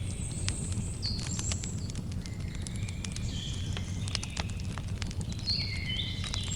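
Campfire crackling with frequent sharp pops over a steady low rumble, while birds give short, high chirps and whistles at varying pitches.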